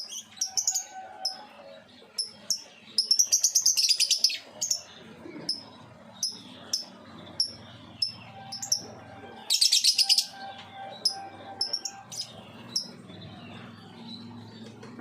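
Pet lovebirds chirping: a string of short, sharp, high chirps, broken twice by a rapid chattering run of calls, about three seconds in and again about ten seconds in, which are the loudest parts.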